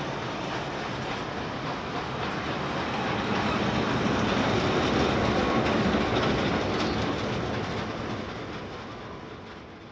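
Train of heritage passenger carriages rolling past, wheels clattering over the rail joints. It grows louder toward the middle, then fades as the train moves away.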